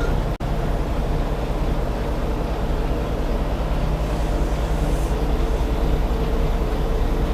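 Semi truck's diesel engine running steadily, a low hum heard from inside the cab. The sound drops out for an instant about half a second in.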